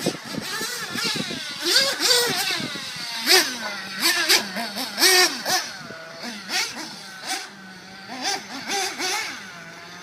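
Radio-controlled cars' motors revving as they race. The pitch keeps rising and falling as they accelerate and slow, with several cars overlapping.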